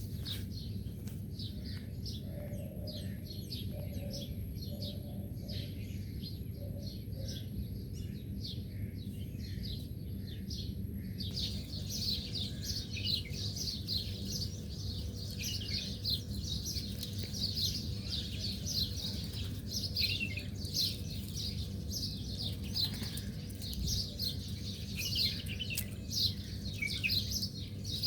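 Small birds chirping: many short, quick notes that fall in pitch, growing busier and louder after about eleven seconds where the recording changes, over a steady low background rumble.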